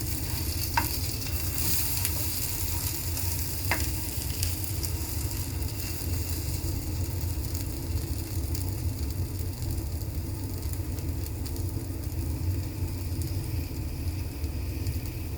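Egg-dipped bread slices sizzling in oil on a dosa tava over a low flame, a steady crackle with a low hum underneath. Two light clicks sound about one and four seconds in.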